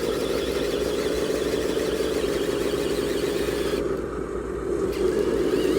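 A 1/14 scale radio-controlled dump truck running, a steady motor sound that dips briefly about four seconds in.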